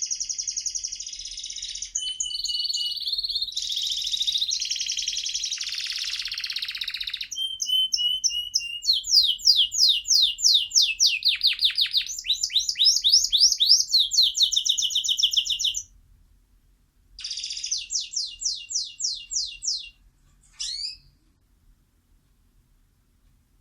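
Pet songbird singing a long, unbroken song of rapid trills and fast repeated high notes. It stops about two-thirds of the way in, then sings a shorter trilled phrase and gives one brief call.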